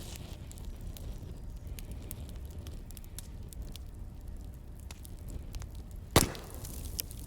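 Wood fire burning with a low steady rumble and scattered small crackles, and one loud pop about six seconds in.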